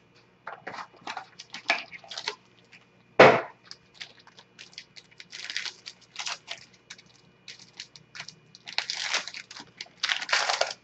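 A trading-card box and its sealed wrapper being torn open, with crinkling, rustling and handling of the cards, and one sharp knock about three seconds in.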